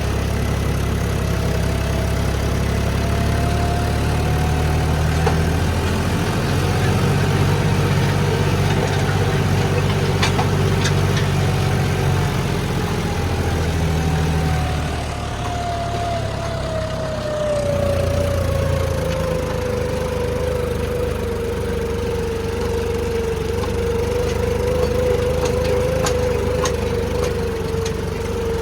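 John Deere 5405 tractor's diesel engine, its fuel pump modified, running steadily during a load test. A whine in its sound slides lower between about twelve and twenty seconds in, then holds at the lower pitch.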